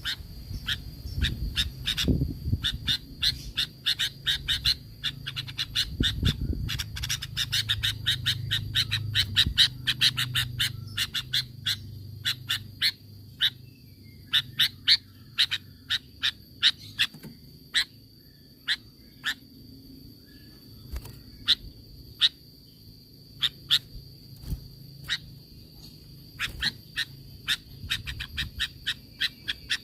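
Sooty-headed bulbuls giving rapid, sharp chattering calls, many short notes a second at first, then sparser and more spaced out, thickening again near the end. A steady high whine runs underneath.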